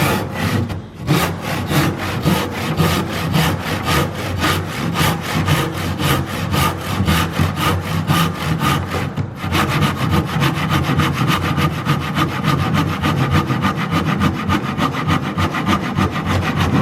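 Handsaw cutting through a timber door-frame bottom plate in quick, even back-and-forth strokes, with a short pause about a second in and another about halfway through.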